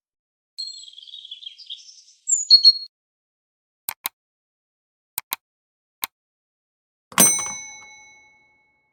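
Editing sound effects: a short burst of high chirps, then sharp clicks in pairs like a mouse button, then a single bright bell ding that rings out for about a second. This is the usual subscribe-button click and notification-bell effect.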